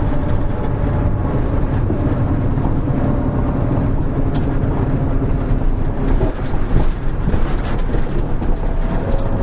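Interior running sound of a Hino Rainbow HR (KL-HR1JNEE) route bus under way: a steady diesel engine drone, with a few short clicks and rattles from the cabin.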